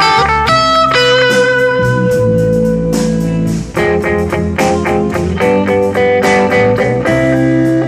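Live band playing a slow instrumental: electric lead guitar carries the melody in long, sustained notes, one held for about two seconds near the start, over upright bass and a steady beat.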